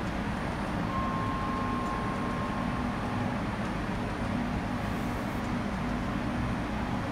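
Docklands Light Railway train at the platform: a steady rumble and hum from the train, with a faint high whine held for about two seconds near the start.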